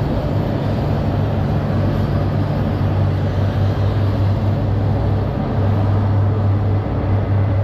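Steady low drone of a running vehicle: a constant low hum over an even rushing noise, with no change in pitch.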